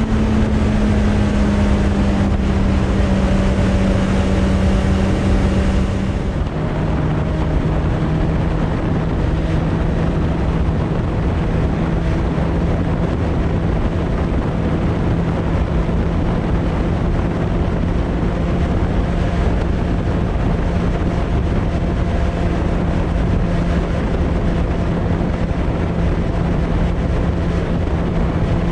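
Suzuki Bandit 600's inline-four engine, through a Hashiru aftermarket exhaust, running under way at steady revs, with wind noise on the microphone. About six seconds in the engine note drops suddenly to a lower steady pitch, as with an upshift, and holds there.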